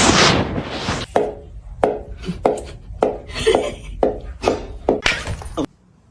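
A loud rushing hiss that stops about a second in, then a run of about nine sharp knocks, roughly two a second, each with a brief ring, that cut off suddenly near the end.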